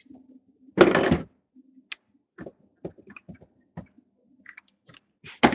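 Handling noise from things being moved about on a table: a half-second rustle about a second in, scattered small taps and clicks, and another rustle near the end.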